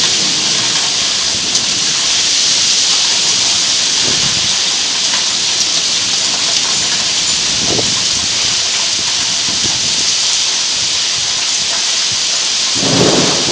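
Heavy rain pouring steadily, a dense even hiss of a downpour, with a short low rumble near the end.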